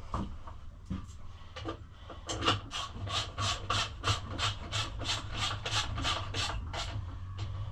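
Ratchet wrench worked in quick, even strokes, about three a second, running a bolt in.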